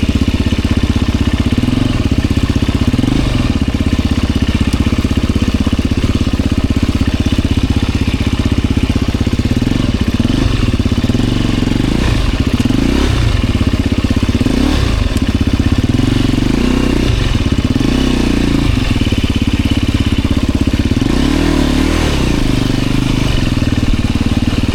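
Enduro dirt bike engine running, revved up and dropping back again and again, with a string of short revs through the second half.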